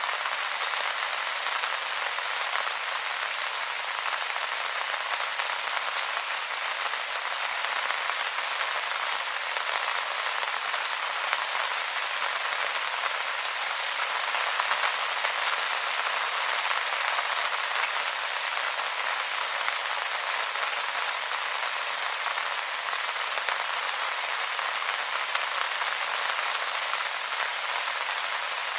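Steady rain pattering on wet leaves, a dense even hiss of many small drops with no single louder event.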